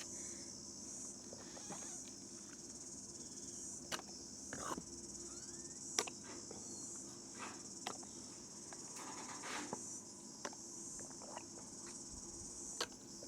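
Steady high-pitched insect chorus, like crickets, under a faint low hum, with a few light clicks and knocks scattered through.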